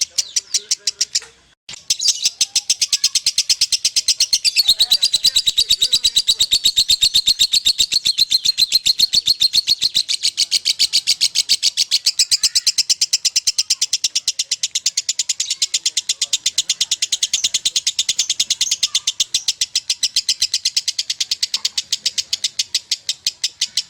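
Lovebird giving its ngekek chattering song: a fast, evenly repeated string of shrill notes. It pauses briefly about a second and a half in, then runs on unbroken at length. This endless ngekek is the 'konslet' style that Indonesian lovebird keepers prize.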